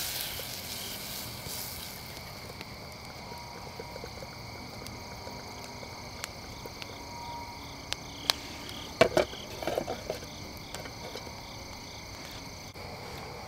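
Butter sizzling in a pan fades out over the first two seconds as the pan comes off the heat, leaving a steady chorus of calling insects. A few sharp clinks and knocks of cookware come about eight to ten seconds in.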